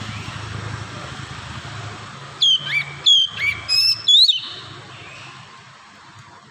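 Oriental magpie-robin singing a short burst of loud, clear whistled notes, about four of them sliding up and down, starting a couple of seconds in, over a faint steady low hum.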